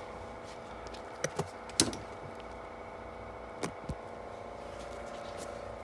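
A few sharp, scattered clicks and light knocks of desktop computer parts being handled and fitted by hand, over a steady background hum.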